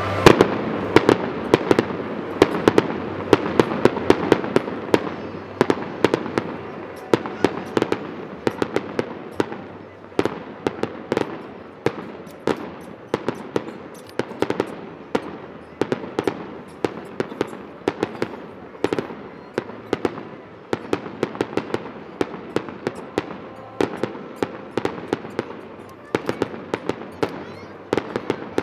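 Aerial firework shells bursting in a rapid, continuous barrage, several sharp bangs a second, densest in the first few seconds.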